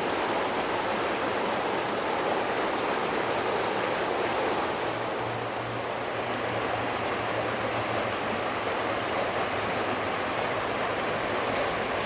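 Steady rush of flowing water, an even hiss that holds constant.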